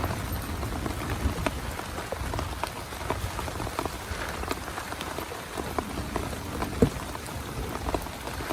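Heavy rain falling on a small tent: a steady hiss with many separate sharp drop hits, one louder hit at about seven seconds in.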